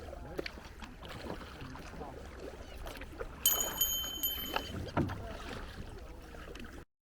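Kayak out on the water: faint paddle and water noise over a steady low wind rumble. A brief high ringing tone sounds about halfway through, and the sound cuts off abruptly just before the end.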